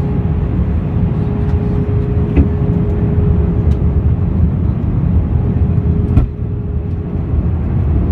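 Steady cabin noise of an Airbus A321 airliner in flight: a low rumble of engines and airflow with a faint steady hum running through it. There are two short sharp knocks, about two and a half and about six seconds in.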